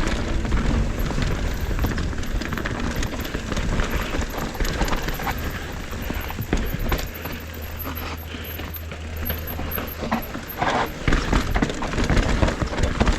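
Mountain bike descending a dirt trail: a dense clatter of many short knocks and rattles from the tires and bike over rough ground, over a steady low rumble. It eases off for a few seconds in the middle and gets busier again near the end.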